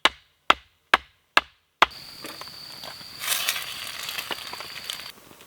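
Wood being chopped: five sharp blows, about two a second, with dead silence between them. Then steady rain hiss takes over, with a thin, steady high tone that stops about five seconds in.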